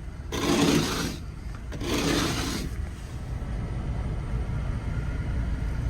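Ice scraper dragged across car window glass in two scraping strokes, scraping off ice, over a steady low rumble.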